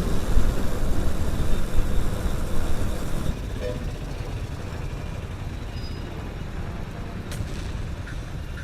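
Wind and road noise from riding a small commuter motorcycle, heard on the rider's microphone. It is loud for the first three seconds, then drops suddenly to a quieter steady rumble as the bike slows.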